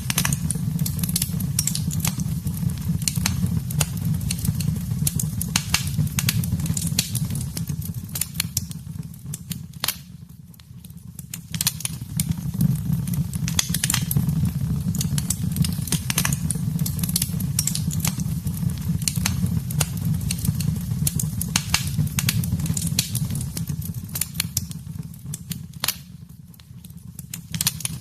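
Wood fire burning in a fireplace: a steady low rumble of flames with frequent sharp crackles and pops. The rumble and crackling fall away briefly twice, about ten seconds in and again near the end.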